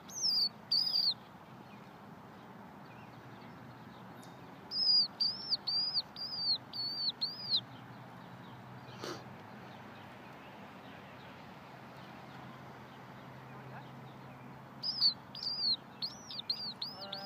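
Bird calls: runs of short, high, arched chirps. There is a brief pair at the start, a quick run of about eight from around five seconds in, and another run near the end, over a faint steady outdoor background.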